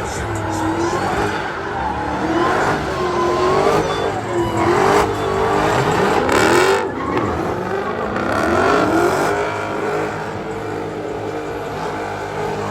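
Car engines revving hard, their pitch rising and falling again and again, with tires squealing as cars spin in the pit.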